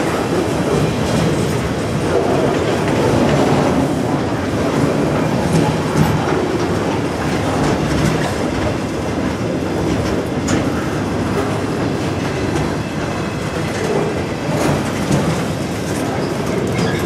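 Freight train of flatcars loaded with buses and trucks rolling past, wheels clacking steadily over the rail joints, with a few sharp clicks along the way.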